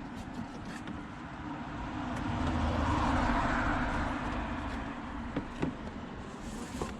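A road vehicle passing by, its noise swelling to a peak about halfway through and then fading, with a few sharp clicks near the end.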